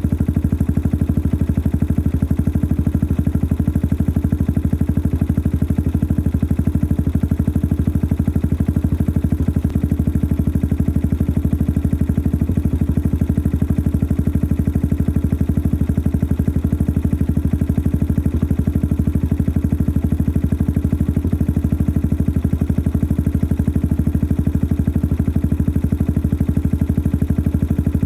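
Yamaha XT 600 43F single-cylinder four-stroke engine idling steadily through its modified stock exhaust, a noisy engine with a clattery, evenly pulsing note.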